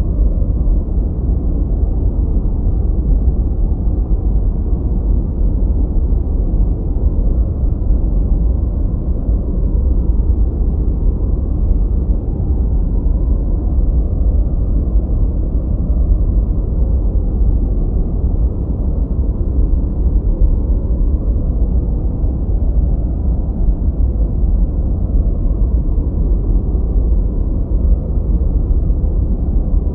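Continuous generated noise, a deep even rumble with most of its weight in the bass and nothing above the low treble, darker than true white noise, closer to brown noise.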